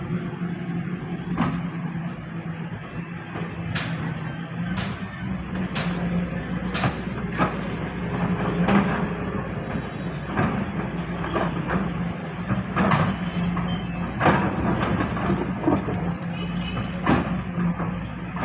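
Heavy diesel machinery running steadily, with irregular knocks and clanks of metal and material throughout, as from an excavator digging and loading; a run of four sharp clicks about a second apart comes a few seconds in.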